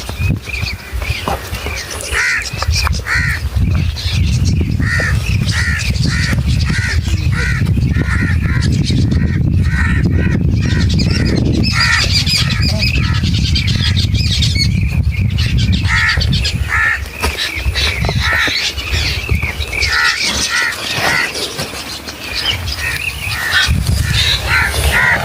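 Birds calling in long series of short, evenly repeated calls, about two or three a second, with the low rumble of wind on the microphone underneath.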